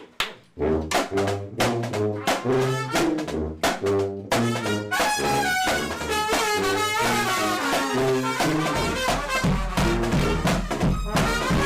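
A brass band plays an upbeat tune, with trumpets and trombones over low bass notes and drums. The full band swells in about four and a half seconds in.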